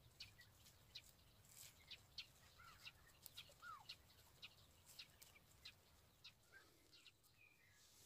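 Faint, scattered bird chirps and a few short calls, some sliding down in pitch.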